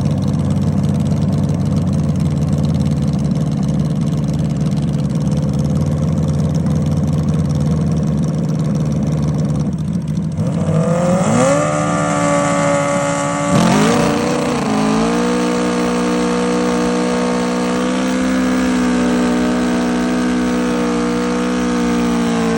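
Car engine and exhaust: a low, rough rumble for the first half, then the revs climb, a sharp click, another climb, and the engine holds a steady higher note to the end.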